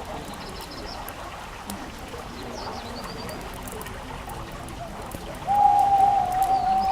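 Fireplace fire crackling steadily, with faint high chirps twice, and about five and a half seconds in a loud, long single owl hoot held on one pitch.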